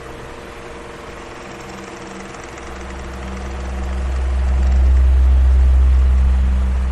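Electric fan running, a steady motor hum over an even rush of air. A deep low rumble swells up about halfway through, peaks, and eases off near the end.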